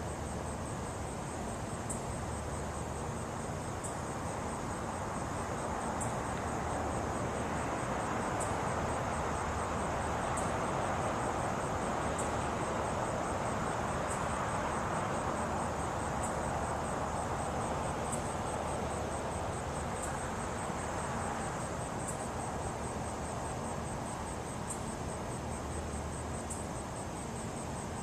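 Night insects such as crickets trilling steadily, with a stronger chirp about every two seconds. In the middle a broad rushing noise swells up and fades away again over about fifteen seconds.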